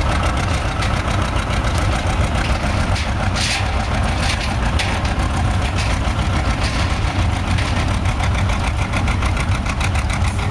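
John Deere model 80 two-cylinder diesel tractor engine running steadily, an even beat of firing pulses over a low rumble.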